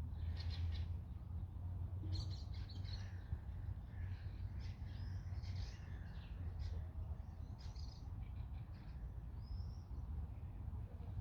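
Songbirds chirping and twittering in short, overlapping high calls, over a steady low rumble.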